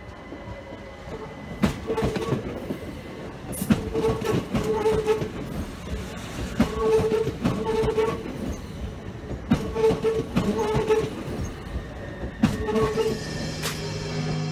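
Train running past, its wheels clicking over rail joints at irregular intervals of one to two seconds, with short paired ringing tones after several of the clicks.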